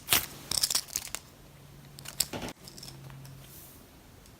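Squishy toys being handled: short crackly rustles and clicks, clustered in the first second and again about two seconds in.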